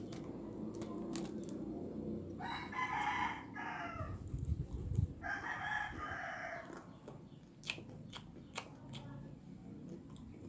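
A rooster crowing twice, each crow about a second and a half long. Low thuds come between the two crows, and a few sharp clicks follow later.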